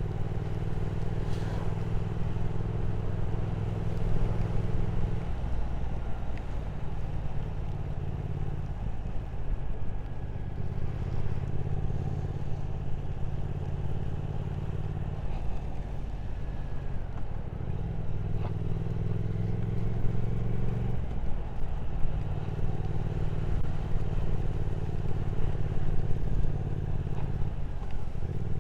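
Motorcycle engine running under way at a steady cruise, over a steady rush of riding noise. The engine note drops away and comes back several times.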